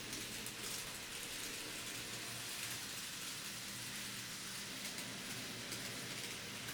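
TOMIX N scale 207 series model train running on the layout's track: a steady, high-pitched rattling hiss of small wheels rolling over the rails, with fine ticking running through it.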